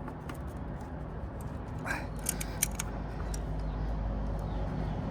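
Light clicks and a short squeak of the Yamaha Virago XV535's carburetors being pushed up into their rubber intake boots, over a low rumble that grows louder near the end.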